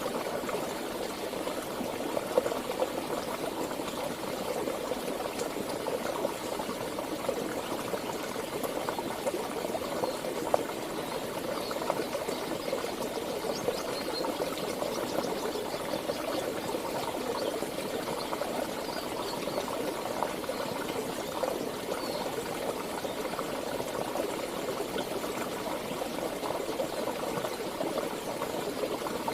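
River water flowing steadily, a continuous even rush and gurgle with no pauses.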